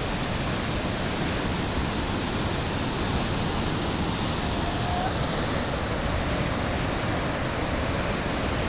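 Perunthenaruvi waterfall on the Pampa river: water rushing down in a steady, unbroken roar.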